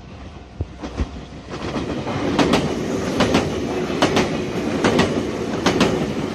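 Nagano Electric Railway express train running on the line, its rumble building up in the first two seconds, with the wheels clicking over rail joints in pairs, clickety-clack, about once a second.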